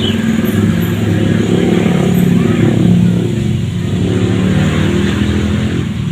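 An engine running steadily, with a low, even hum that swells slightly in the middle.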